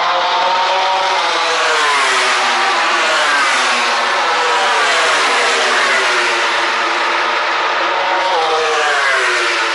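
Several racing motorcycle engines at high revs as a pack of bikes goes by on the track. Their pitches sweep down and back up, with a sharp drop in pitch about eight seconds in.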